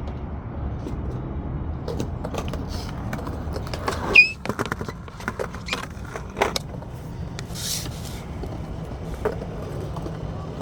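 Skateboard wheels rolling on concrete with a steady rumble, broken by clacks and knocks of the board. About four seconds in comes a loud crack with a brief high squeak.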